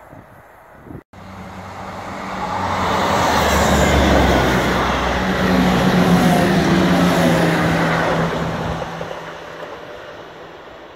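ScotRail multiple-unit passenger train passing close by. It rises to its loudest a few seconds in, with a steady low hum under the rush of the wheels and air, then fades away.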